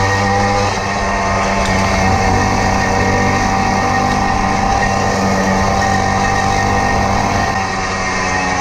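Hercules Prima moped's 50cc two-stroke engine running at a steady speed, its note easing off briefly near the end.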